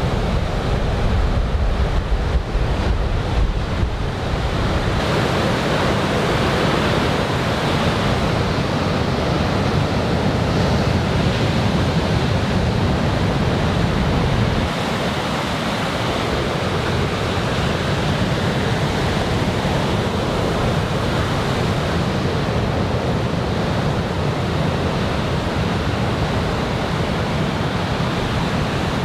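Heavy surf from a typhoon swell breaking and washing up the beach, a continuous rush of noise. Wind rumbles on the microphone, heavier in the first few seconds and easing about halfway through.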